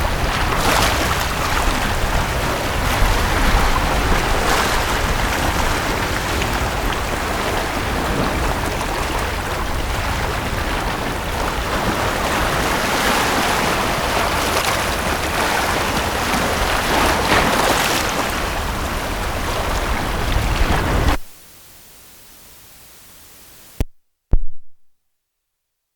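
Sea waves washing onto a beach: a steady surf wash with a surge every few seconds. About 21 s in it cuts off suddenly to a faint hiss, followed by two short pops around 24 s and then silence.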